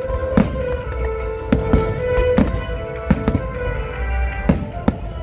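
Fireworks display: aerial shells bursting in sharp bangs, about eight in five seconds at uneven intervals, over music with long held notes.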